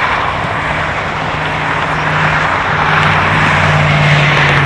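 Road traffic noise with a steady low engine hum that comes in about half a second in and grows a little louder toward the end.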